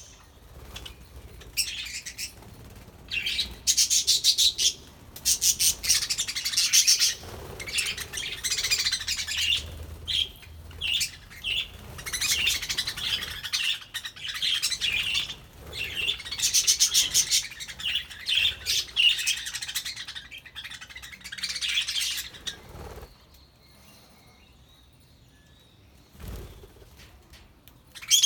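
A flock of budgerigars chattering in quick chirps and fast warbling trills, dying away for a few seconds near the end. A single soft low thump comes just before the chirping starts up again.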